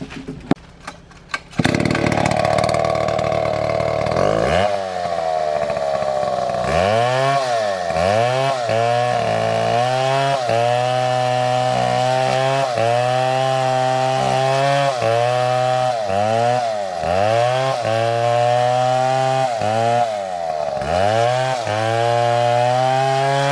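A STIHL chainsaw starts up suddenly after a few sharp clicks, then runs at high revs. Its engine pitch repeatedly dips and recovers as it bogs down under load while cutting wood.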